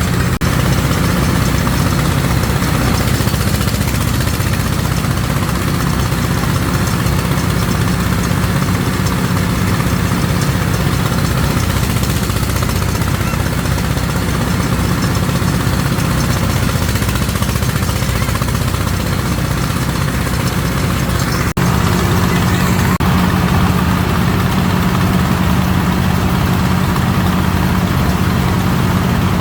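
An engine running steadily with a low, even hum, with an abrupt change in tone and a small rise in level about three-quarters of the way through.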